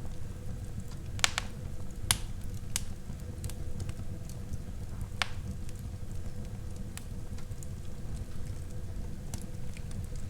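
Wood fire burning in a fireplace: a steady low rumble of the flames with sharp crackles and pops at irregular intervals, the loudest about a second in, two seconds in and five seconds in.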